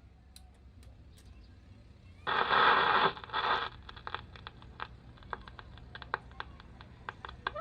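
RCA Victor 45-EY-2 record changer between two 45 rpm records: about two seconds in, a second and a half of scraping noise, then scattered crackles and ticks from the stylus in the groove before the next record's music starts.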